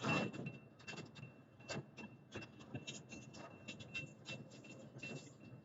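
Slow-moving intermodal freight train rolling past, heard as a faint, irregular series of clicks and knocks over a low rumble.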